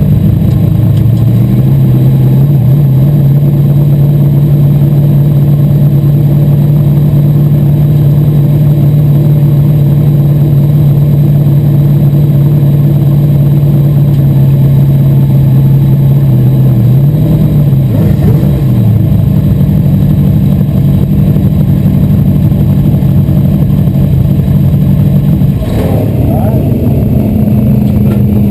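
Asphalt modified race car's V8 engine heard loud from the cockpit, running at steady revs for a long stretch; it eases off and wavers about two-thirds of the way through, then settles at a slightly higher steady note.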